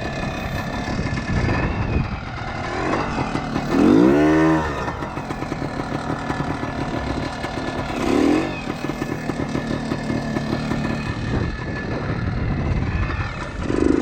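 1976 Kawasaki KT250 trials bike's two-stroke single-cylinder engine running while being ridden, with quick throttle blips: the loudest rev rises and falls about four seconds in, another comes around eight seconds, and a third near the end.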